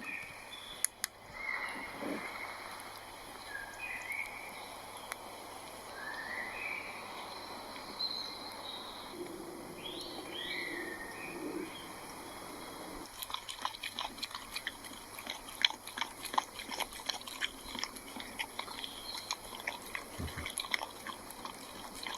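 Woodland birds chirping in short rising and falling calls over a soft steady hiss. About 13 seconds in, a rapid irregular run of sharp crunching clicks takes over.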